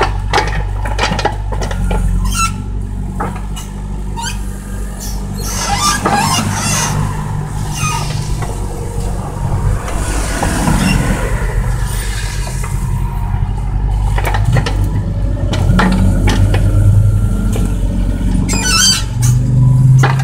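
Excavator diesel engine running steadily as the machine digs, with repeated knocks and clanks from the bucket and arm.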